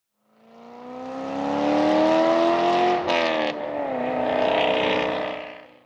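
Race car engine revving, fading in and climbing steadily in pitch, then dropping in pitch after a short sharp burst about three seconds in before fading out.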